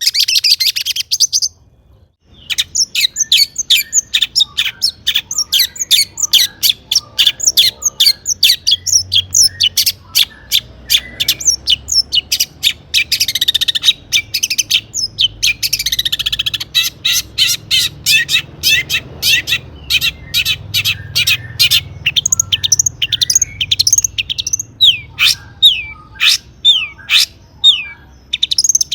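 Long-tailed shrike (cendet) singing a fast, chattering song of rapid sharp, high notes, several a second, with harsher, scratchy stretches. The song breaks off briefly about two seconds in.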